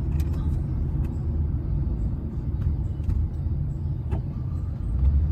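Steady low rumble of a car driving, with a few faint ticks and no loud impact.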